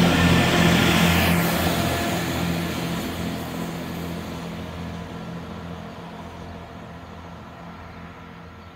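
Chiltern Railways diesel multiple unit moving away along the line, its low engine hum and rail noise fading steadily as it recedes.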